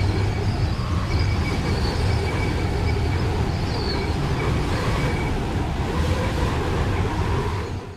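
Steady rumble of strong wind on the microphone, with a faint high tone that comes and goes; it fades out right at the end.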